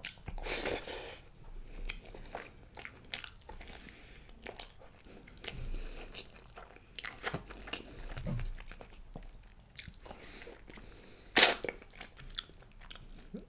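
Close-miked chewing and biting of mutton curry and basmati rice eaten by hand, with irregular crunchy clicks and smacks. One much louder, sharp mouth sound comes about eleven seconds in.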